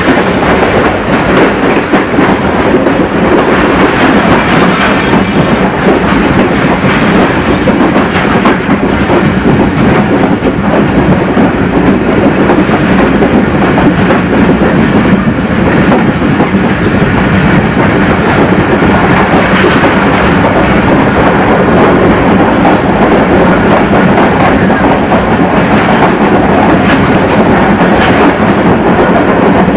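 Pakistan Railways passenger coach running at speed, its wheels on the rails making a loud, steady rumble, heard from the coach's open doorway.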